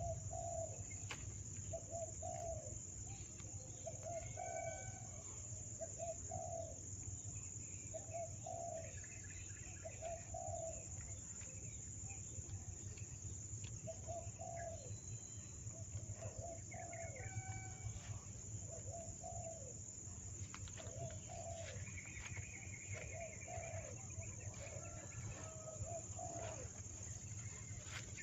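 A bird repeats a short, low call about once a second over a steady, high-pitched insect drone, with fainter chirps from small birds now and then.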